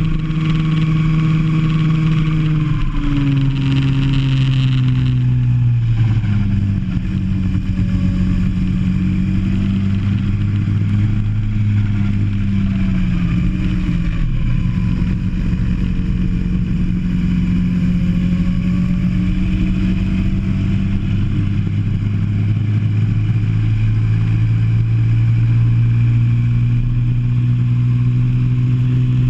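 Go-kart engine heard from on board, running hard through a lap. Its note falls in a few steps a few seconds in as the kart slows, then holds and slowly climbs again as it picks up speed.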